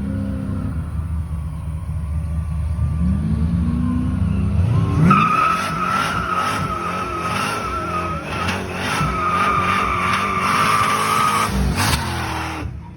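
The supercharged stroker V8 of a 1989 Mustang GT is revved several times, its pitch rising each time. It then holds for a steady high tyre squeal of about six seconds as the tyres spin, which cuts off near the end.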